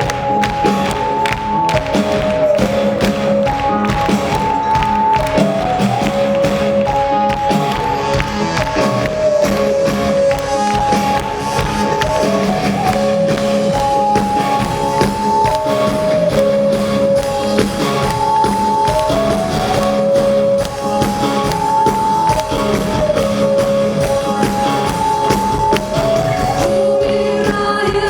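Live band playing an instrumental passage: a melody line repeating about every four seconds over a steady bass note and drums.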